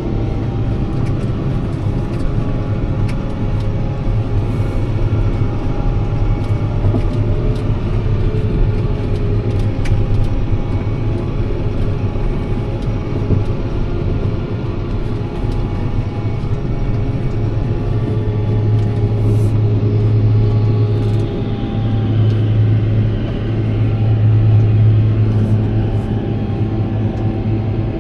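Tractor diesel engine running steadily under way, a low drone that grows a little louder near the end.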